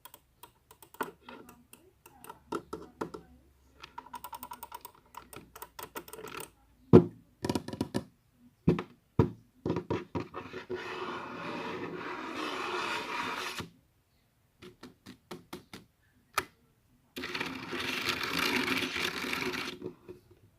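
Objects being tapped and handled: scattered clicks, a quick run of taps, three sharp knocks, then two stretches of scratching or rustling of about three seconds each.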